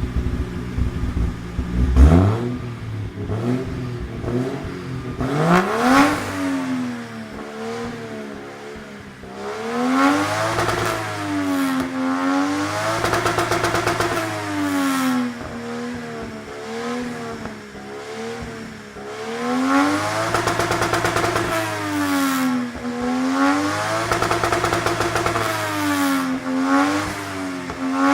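Toyota 1JZ-GTE VVTi turbocharged straight-six, exhausting through a 3-inch exhaust, revved over and over from idle. The pitch climbs and falls, and several times the engine is held at the top, where the rev limiter cuts in with a rapid stutter. It is misfiring and not running healthily after a Spitronics Mercury 2 engine management unit was fitted.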